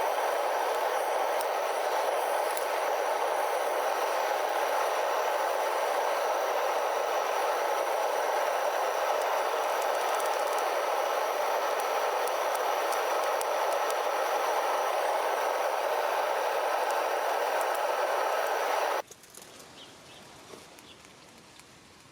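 Propane-fired melting furnace burner running with a steady rushing noise, then cut off suddenly about three seconds before the end, leaving a few faint clicks.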